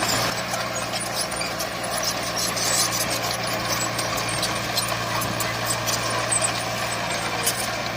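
Heavy earthmoving machinery engine running at a steady pitch, with scattered light clicks and rattles over it.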